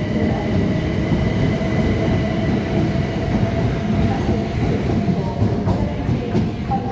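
Class 377 Electrostar electric multiple unit pulling out of the station: a loud, steady rumble of wheels on track with a thin high whine held on one pitch.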